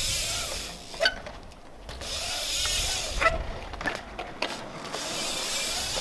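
BMX bike tyres rolling on a concrete skatepark, a rushing hiss that swells and fades as the rider carves through the transitions, with a few sharp clicks and knocks from the bike.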